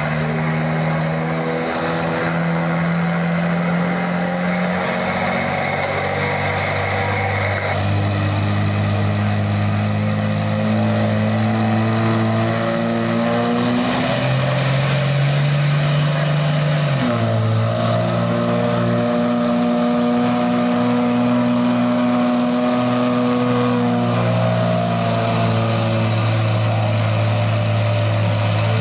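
Pickup truck engine held at high revs under full load while pulling a weight sled down the track. Its pitch creeps slowly upward, jumps up suddenly about halfway through, drops back a few seconds later and then holds steady to the end.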